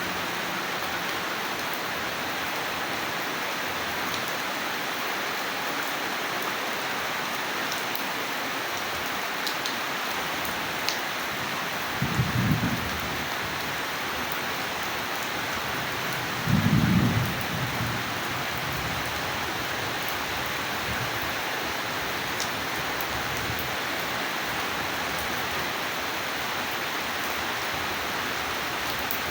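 Steady rain falling. It is broken twice by short low rumbles of thunder, about twelve seconds in and again, louder, about four seconds later.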